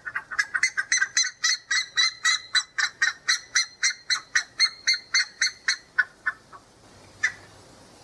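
Buff-necked ibis (curicaca) calling: a fast, loud series of call notes, about five a second, that stops about six seconds in, followed by one last note a second later.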